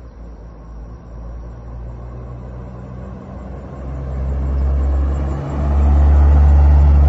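Willys pickup truck's engine running with a steady low rumble, getting louder about four seconds in and again after a brief dip about five and a half seconds in.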